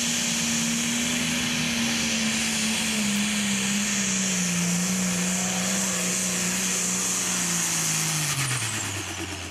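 Pro stock pulling tractor's turbocharged diesel engine running flat out under load from the weight sled. Its revs hold for about three seconds, then sink steadily as the sled pulls it down, and fall away sharply near the end as the engine bogs and throttles back.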